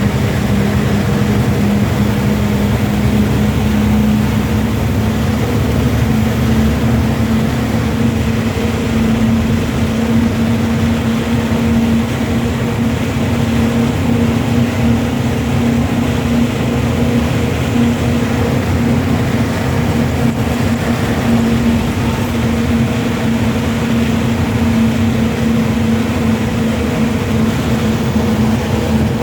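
A vehicle engine running steadily on the road, a constant low drone with a steady hum that does not change pitch.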